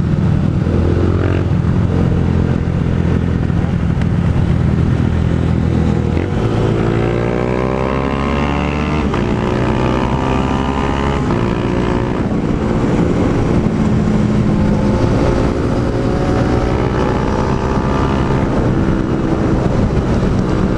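Honda Fan 160 single-cylinder engine with an aftermarket Pro Tork GP Competition exhaust, riding at steady speed; about six seconds in it accelerates, the pitch rising, dropping at a shift and rising again, then settles into a steady cruise.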